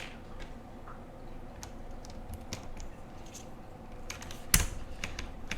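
Scattered keystrokes on a Monka 3067 mechanical keyboard with Cherry Retro keycaps, with a much louder stroke about four and a half seconds in. The keystrokes come from testing a very light switch fitted under the spacebar.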